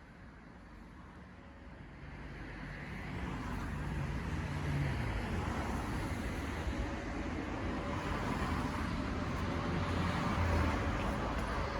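Motor vehicle and road noise, a low rumble that grows louder over the first few seconds and then holds steady.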